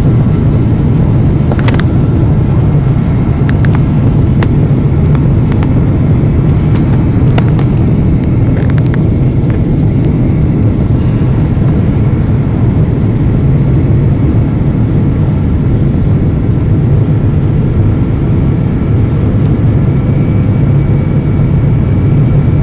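Boeing 777-200 cabin noise on approach: the steady, loud low drone of the engines and airflow heard from a window seat, with a faint steady whine above it and a few faint clicks in the first half.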